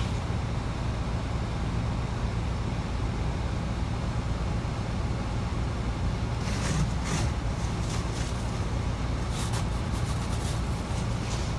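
Steady road and engine rumble heard from inside a moving car's cabin, with a few brief rustles about two-thirds of the way in.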